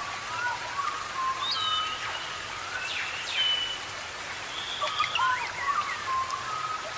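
Several birds calling at once: clear whistled notes, some held level, some rising or falling, overlapping throughout over a steady hiss.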